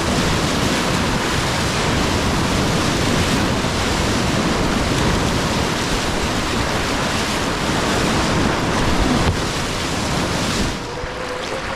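Whitewater rapid rushing as a steady loud roar of water, mixed with wind noise on the microphone; it eases a little about a second before the end.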